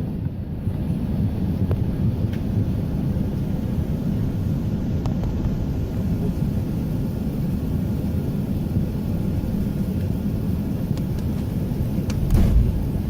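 Steady low rumble heard inside the cabin of an Airbus A380 as it rolls along the ground, with its engines running. A few heavier low bumps come near the end.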